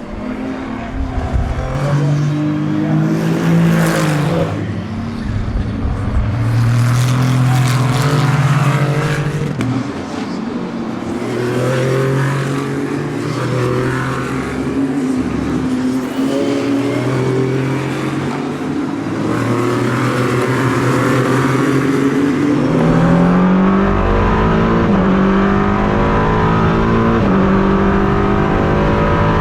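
Racing car engines at full throttle, several cars passing in turn, each swelling and fading. Near the end one car accelerates hard, its engine note climbing and dropping back with each upshift.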